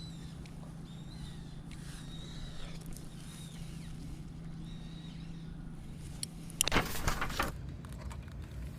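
Outdoor ambience with a steady low hum of distant road traffic and a few faint high chirps. About six and a half seconds in comes a loud, brief rushing noise lasting about a second, such as rustling or handling near the microphone.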